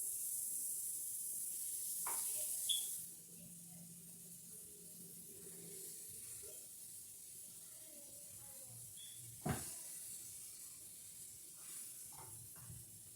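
Chicken frying in butter in a pan, a high sizzle for about three seconds that then drops to a faint hiss. Two sharp knocks, one about three seconds in and one near ten seconds in, with a few small clicks near the end.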